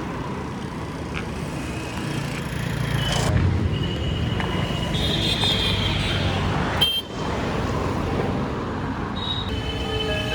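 Road traffic: steady vehicle engine and tyre rumble with a few short horn toots. Background music comes in near the end.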